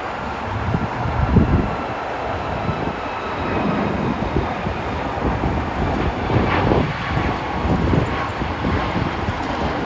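Jet airliner engines making a steady rumble with a faint whine over it.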